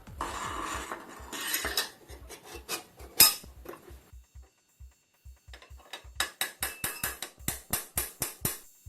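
Metal tools scraping and clinking on a mountain bike's headset, with a sharp metal strike about three seconds in, then a run of quick taps, about three a second, near the end, as the old headset is worked out of the frame.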